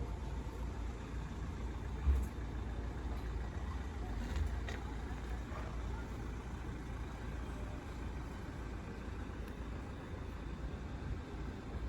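Steady low outdoor rumble, like distant street traffic, with one short thump about two seconds in and a softer one a couple of seconds later.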